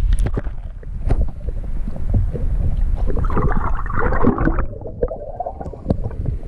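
Lake water sloshing and gurgling around a camera as it is dipped below the surface, with many sharp knocks and a heavy low rumble. The sound turns muffled a little past halfway, when the highs drop away.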